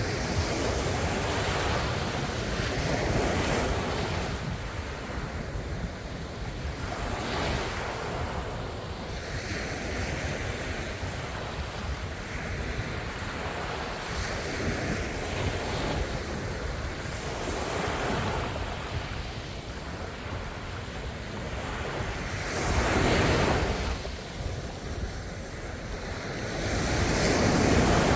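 Ocean waves breaking on the shore, one swell after another rising and falling every few seconds, with a low rumble of wind on the microphone underneath.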